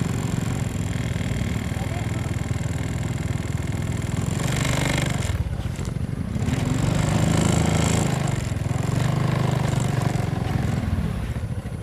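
Motorcycle engine running under changing throttle, its pitch rising and then falling as it revs up and eases off. There is a short burst of rushing noise about four and a half seconds in.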